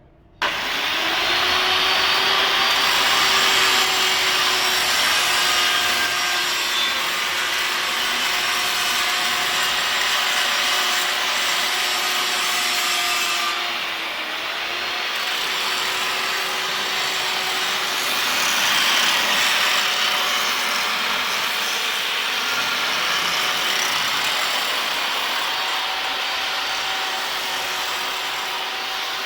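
Electric angle grinder switched on about half a second in, spinning up, then running continuously with its disc grinding against material; the motor's pitch sags briefly about halfway through, as if under load.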